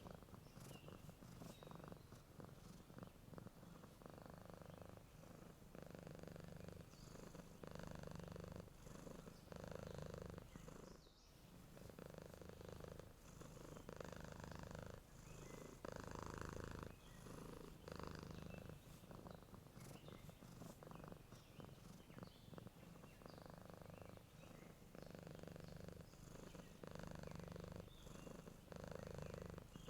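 Domestic cat purring softly while asleep, the purr swelling and easing with each breath about every two seconds, with faint bird chirps in the background.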